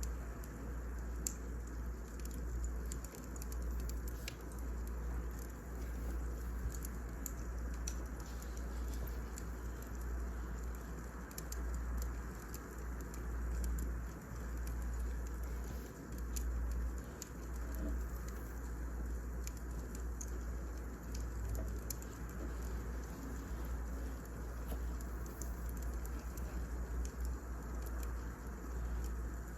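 Wood fire crackling: irregular small pops and ticks scattered throughout, over a steady low rumble.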